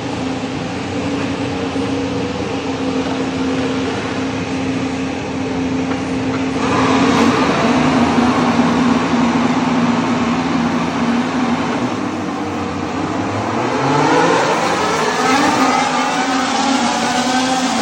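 A vehicle engine running, its note rising as it accelerates about two thirds of the way in, over a steady hiss.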